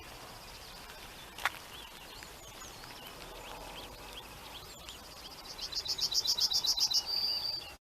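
Songbirds singing and chirping, with a sharp click about a second and a half in. Near the end one bird sings a loud, fast series of high notes, about eight a second, closing on a short held high note.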